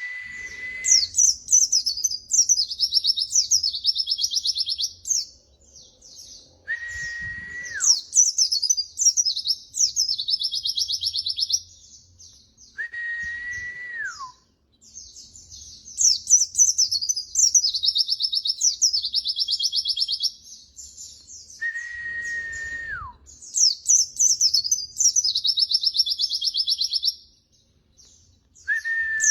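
White-eye (pleci) song: bursts of fast, high twittering phrases, each a few seconds long, repeated after short pauses. A lower, steady whistle that slides down at its end recurs between the phrases, about every six to nine seconds.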